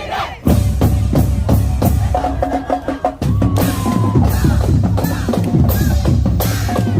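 High-school marching band playing, with drums and bass drums keeping a driving beat under short held notes. The music breaks off for a moment near the start and again about three seconds in.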